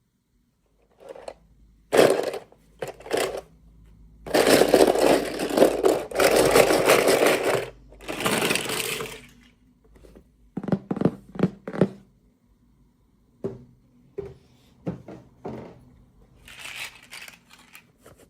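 Plastic packaging being handled and opened: crinkling and rustling in long bursts, the loudest a few seconds in, then a run of short sharp clicks and taps of small plastic pieces.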